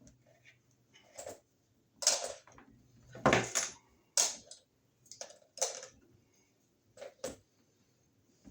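Small hard objects being handled: a run of irregular clatters and knocks, with a heavier thump about three seconds in.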